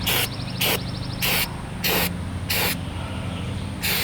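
An aerosol can of Flex Seal rubber sealant sprays in short hissing bursts about every half second, then in a longer continuous spray near the end. It is coating a hole and crack in a boat hull.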